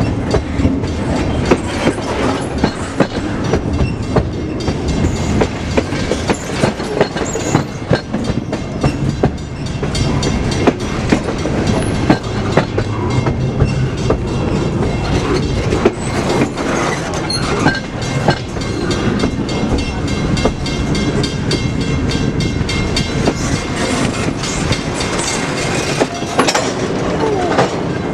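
Freight train cars rolling past, their wheels clacking over rail joints in a long run of sharp clicks over a steady rumble.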